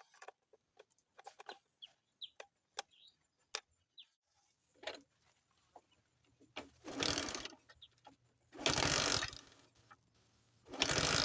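Scattered sharp clicks and taps of mechanical handling, then three bursts of rapid, rattling mechanical noise, each about a second long.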